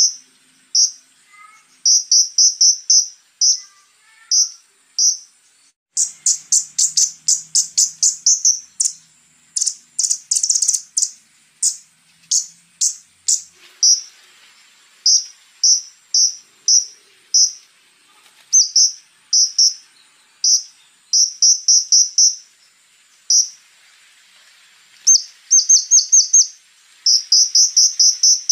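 Konin sunbird singing: quick trains of short, high, sharp notes with brief pauses between them, turning into a dense fast run about six seconds in. A steady, thin, high insect-like buzz runs behind the song.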